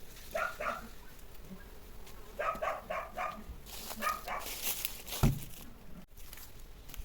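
A dog barking in short bursts: two barks, then a run of four, then two more. A hiss follows, and a loud thump comes about five seconds in.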